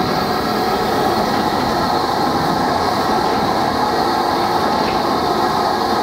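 A goods train of four-wheeled steel mineral wagons rolling past, a steady running noise of wheels on rail.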